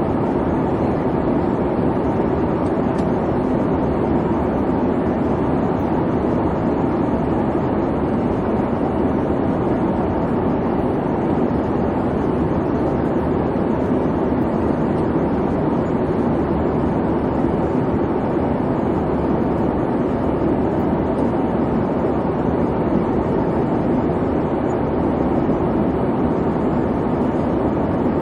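Steady airplane cabin noise: the even hum and rumble of the engines and airflow heard from inside the cabin, with a faint steady tone above it, unchanging throughout.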